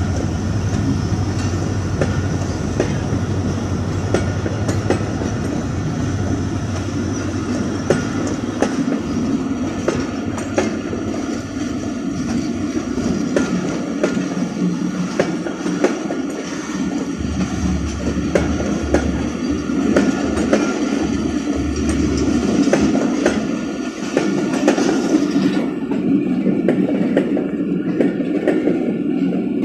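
Passenger coaches of a departing express train rolling past, their wheels clacking over the rail joints over a steady rumble, with a faint thin high whine through the middle.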